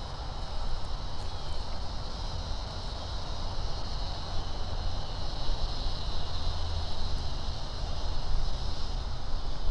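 Wind buffeting the microphone during a ride on an electric unicycle: a steady, uneven low rumble, with a faint steady high-pitched hiss above it.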